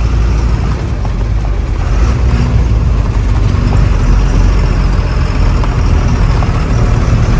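Truck engine running steadily with a deep rumble and road noise as the truck drives along.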